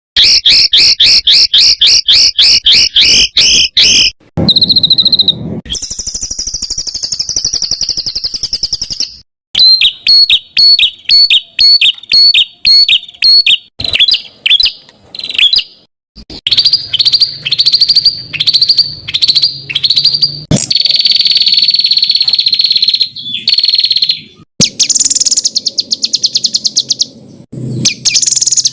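Songbird calls edited into a string of abruptly cut segments, as in a masteran tutor-song recording for cage songbirds. Rapid repeated chirps are followed by a buzzing high trill, then runs of sharp falling notes and long rattling trills.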